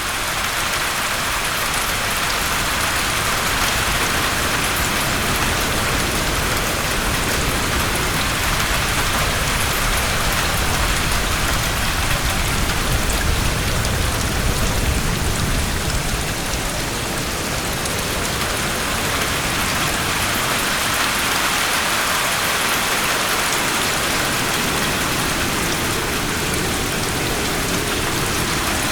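Steady heavy rain falling and pattering on a surface, an even dense hiss, with a low rumble swelling briefly near the middle.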